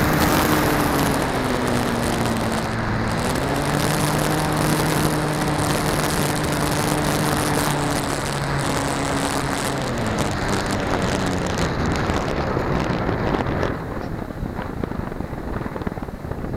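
Model T-28 Trojan radio-controlled plane's motor and propeller running, heard with air rushing past. The pitch drops, climbs again a few seconds in, then steps down twice as the throttle is eased back. About fourteen seconds in the motor tone dies away, leaving mostly wind noise.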